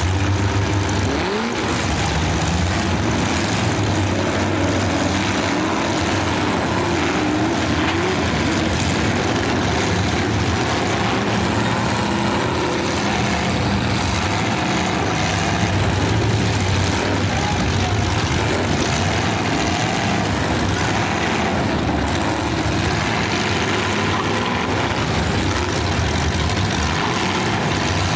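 Full-size demolition derby cars' engines running together in a steady, loud din, their pitch rising and falling as drivers rev.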